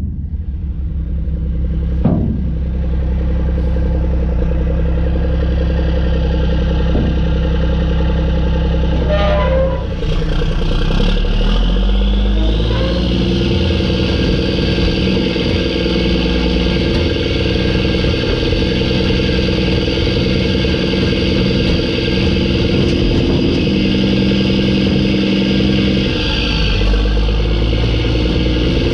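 Mack E7 inline-six turbo diesel in a loaded CH612 dump truck running under load, with a single knock about two seconds in. After a brief dip in the engine sound about ten seconds in, a high turbo whistle rises and holds steady, then falls away near the end.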